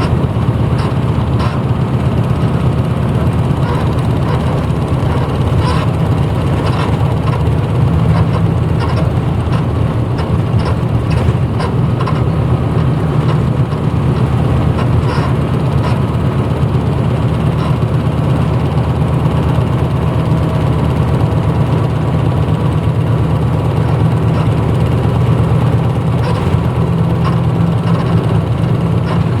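The diesel engine of a 1994 Hino Blue Ribbon U-HT2MPAA city bus running steadily, heard from inside the passenger cabin, with a deep drone and no clear rise or fall in revs. Short clicks and rattles come in here and there.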